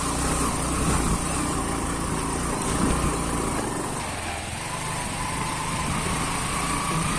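Motorcycle engine running steadily, easing slightly about four seconds in.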